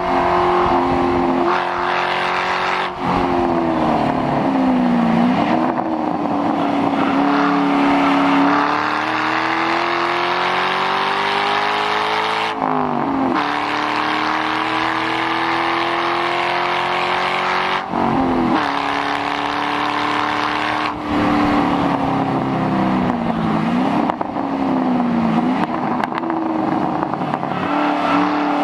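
2006 Mustang GT's 4.6-litre V8 with the mufflers deleted, driven hard on track. The exhaust note climbs steadily under acceleration and falls sharply at each of three upshifts, with a few short dips where the revs drop and come back up.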